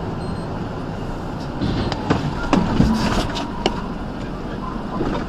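Steady road and engine noise from a moving vehicle, with a cluster of sharp clicks and knocks about two to four seconds in.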